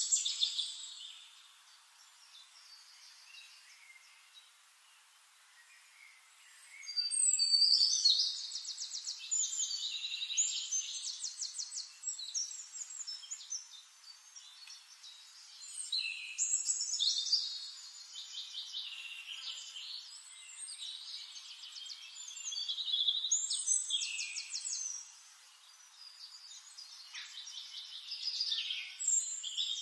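Songbird singing in repeated bouts several seconds long, each a high, fast warbling phrase with rapid trills, separated by short pauses.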